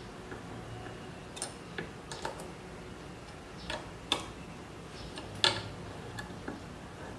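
Scattered sharp clicks and light knocks of metal parts and tools being handled during hand assembly, the loudest about four and five and a half seconds in.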